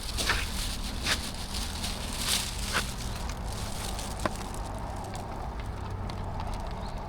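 Footsteps squelching through wet mud and half-melted snow, a step every half to three-quarters of a second for the first three seconds, then fading. A sharp click comes about four seconds in, over a steady low rumble.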